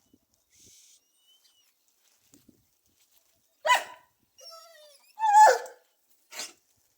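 A dog barking: a sharp bark about three and a half seconds in, a short thin whine, then the loudest bark falling in pitch, and one last short bark near the end.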